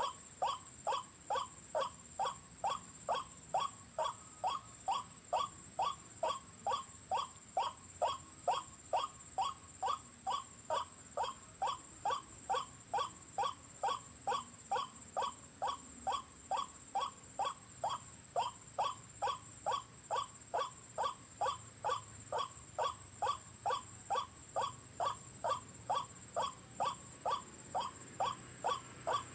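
White-breasted waterhen call played on a loop from an electronic bird-call player used as a trapping lure. The short call repeats very evenly, about two times a second, over a faint steady high whine.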